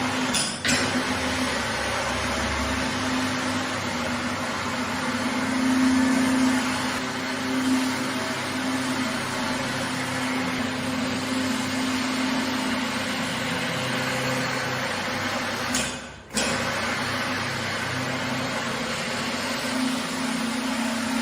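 An electric carpet-cleaning machine running steadily: a steady hiss over a low motor hum. It breaks off for a moment about sixteen seconds in, then carries on.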